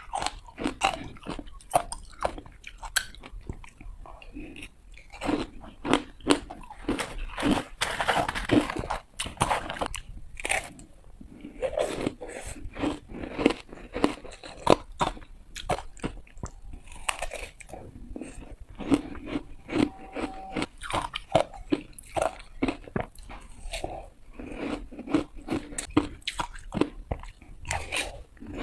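Close-up crunching of ice being bitten and chewed: rapid, irregular sharp cracks and crunches, one after another.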